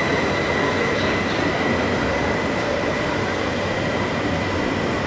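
BRB RE5 regional electric train running slowly along the platform: a steady rolling rumble with a faint, thin, high wheel squeal that dies down within the first second.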